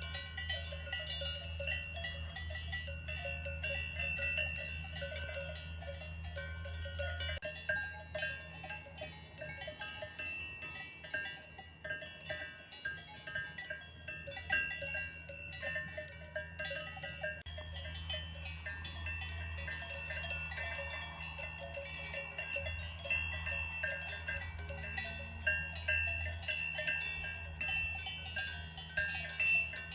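Several cowbells on a herd of grazing cows, clanking and ringing irregularly and overlapping, over a low steady rumble.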